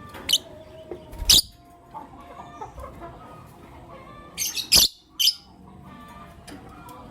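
Lovebirds chirping, with a few short, shrill, loud calls: one a little over a second in and a quick cluster about four and a half to five seconds in, over softer chatter.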